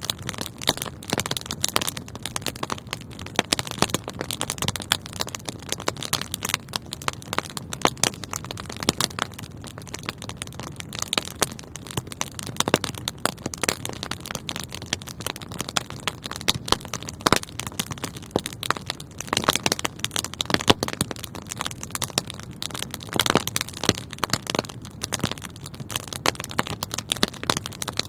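Wood fire burning in a fireplace, crackling and popping steadily: many sharp irregular pops and snaps over a soft low rush of flames.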